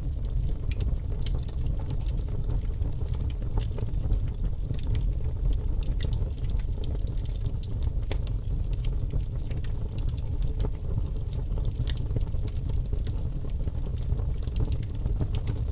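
Campfire burning: a steady low rushing with frequent sharp crackles and pops from the burning wood.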